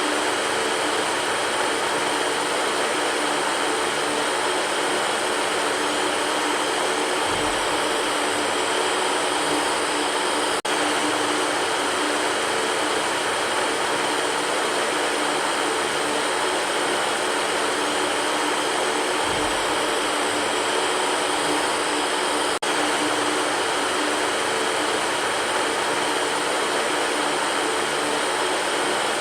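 Electric fan running steadily: an even rush of air with a faint motor hum, with a slight brief dip about every twelve seconds.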